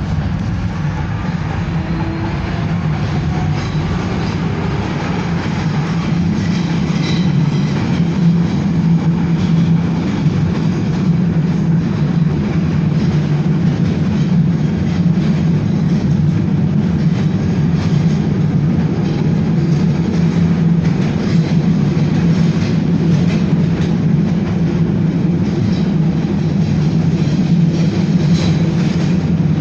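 BKM-62103 tram running along the track, heard from on board: a steady low motor and wheel hum with rail-joint clacks. It gathers speed over the first several seconds, then runs on evenly.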